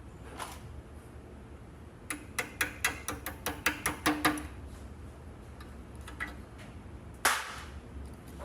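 A quick run of about a dozen sharp clicks, roughly five a second, from about two seconds in, then one louder, longer noisy clatter near the end.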